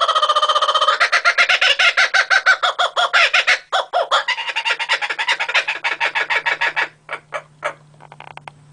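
Laughing kookaburra call: a long run of rapid, repeated cackling notes that winds down near the end into a few spaced notes.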